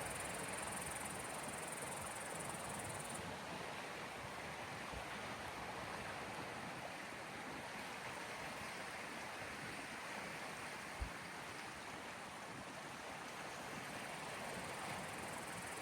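Steady rushing wash of small sea waves on the shore. A brief low thump comes about eleven seconds in.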